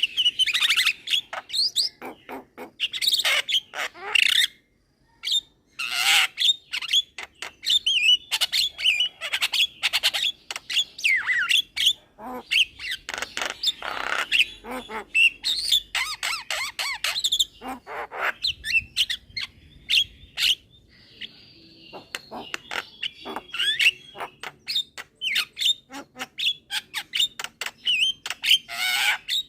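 Young Javan myna singing continuously: a fast, varied run of harsh squawks, chattering clicks and whistled notes, with a short pause about five seconds in.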